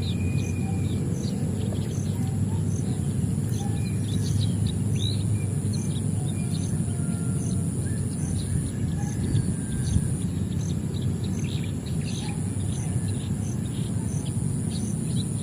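Birds chirping in short scattered calls over a steady high insect drone, with a short note repeating about twice a second. A steady low rumble runs underneath.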